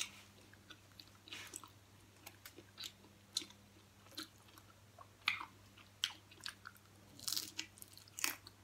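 Close-miked chewing of crispy deep-fried pig head: scattered crunches and wet mouth clicks, a few every second.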